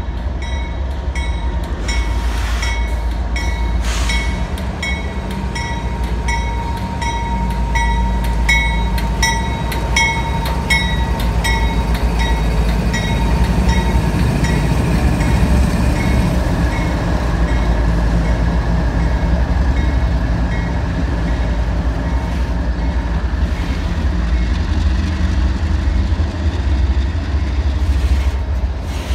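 Freight train's diesel locomotives rumbling past at close range, with an evenly repeating ringing, typical of a locomotive bell, over the first dozen seconds. After that come the autorack cars rolling by with steady wheel noise on the street-running track.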